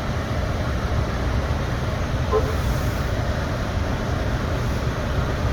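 Strong gusting wind buffeting the microphone: a steady low noise with a hiss above it.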